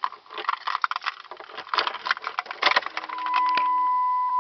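Clicks and rattles of handling inside the cab, then about three seconds in the Jeep Grand Cherokee's electronic warning chime comes on as one steady high tone, as the ignition is switched on before starting.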